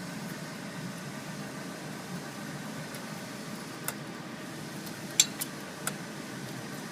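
A few short, sharp metallic clicks and clinks as a metal hose clamp is worked into place by hand, four in all from about four seconds in, the loudest just after five seconds, over a steady background hum.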